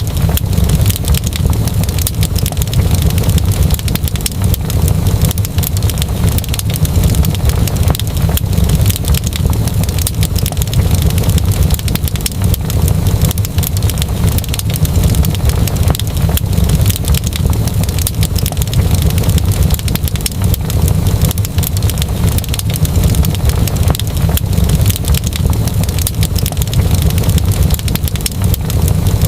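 Wood fire crackling, a dense run of small pops and snaps over a steady low rumble.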